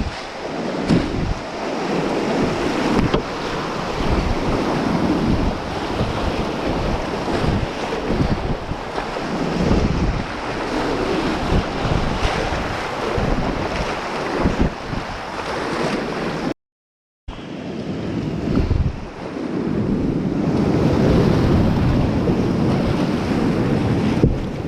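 River rapids rushing around a kayak, with wind buffeting the microphone. The sound cuts out completely for a moment about two-thirds of the way through.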